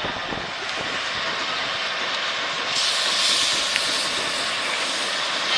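Diesel-hauled tourist train starting off, its steady running noise heard from an open car, with a loud hiss of air that starts suddenly about three seconds in and carries on.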